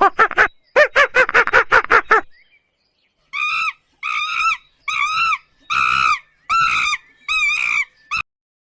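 Repeated animal calls: a fast run of short pitched calls, then after a pause about six separate higher, arched calls, evenly spaced.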